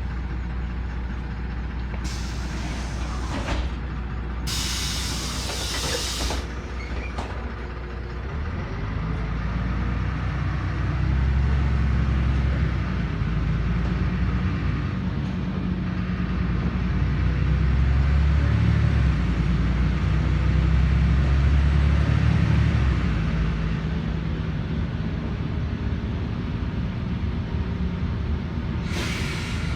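Inside a LiAZ 5292.21 city bus on the move: a steady rumble of the diesel engine and running gear, with sharp hisses of air from the bus's compressed-air system about two and five seconds in and again near the end. The engine grows louder from about ten seconds in, then eases off again.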